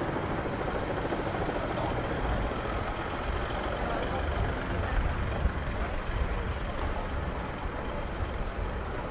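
City street traffic, with a heavy vehicle's engine rumbling steadily.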